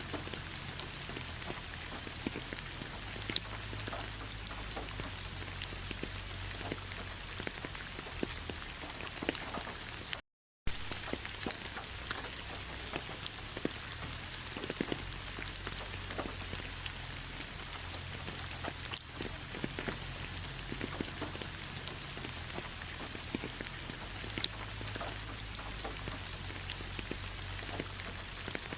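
Steady autumn rain falling on fallen leaves, a continuous patter with many individual drops ticking. The sound cuts out completely for a fraction of a second about ten seconds in.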